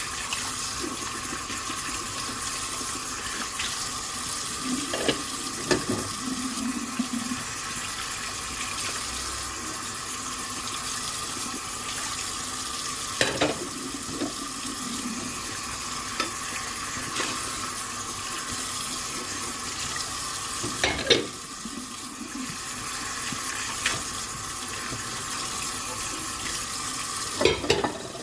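Tap water running steadily into a sink while dishes are washed, with several sharp knocks and clinks of dishes being handled.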